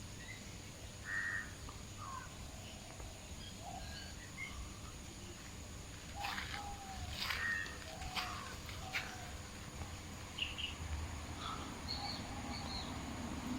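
Scattered short animal calls, chirps and squeaks, over a steady outdoor background, with a run of sharp harsh calls about six to nine seconds in.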